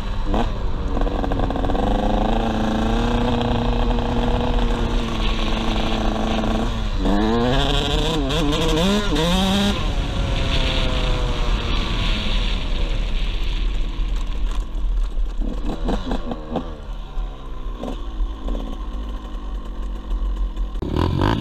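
KTM 85 SX two-stroke dirt bike engine under way, its note held steady at first, then revving up and down several times through the middle, easing off later and picking up again at the end. A low wind rumble sits under it on the helmet-mounted camera's microphone.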